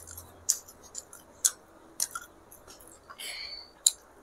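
Close-up mouth sounds of someone chewing chole bhature, the fried bread and chickpea curry: sharp wet smacks about every half second, another near the end, and a short hiss a little past three seconds in.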